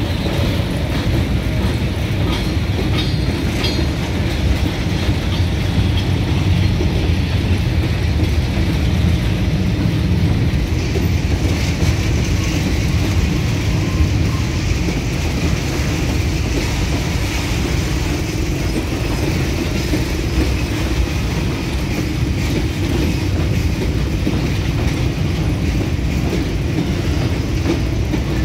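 A freight train of boxcars passing close by, its wheels rumbling and clattering steadily over the rails.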